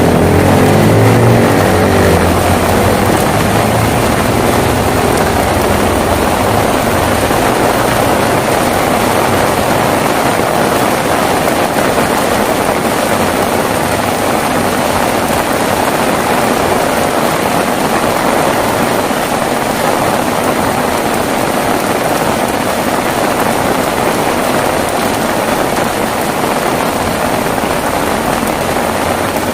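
Heavy rain falling steadily. A low thunder rumble fades away over the first few seconds.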